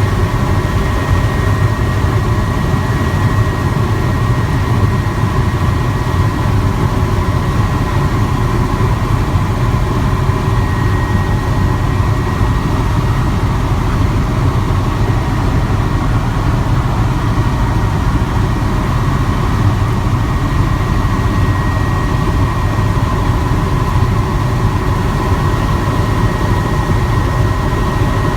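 Helicopter in flight heard from inside the cabin: a steady rotor and engine rumble with a constant high whine on top.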